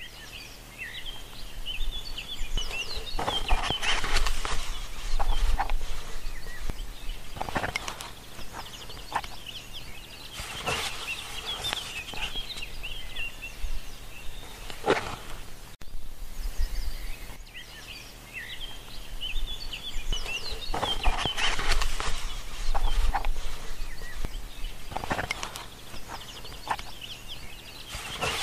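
Birds chirping and calling in a busy chorus of short, quick notes over a steady low hum.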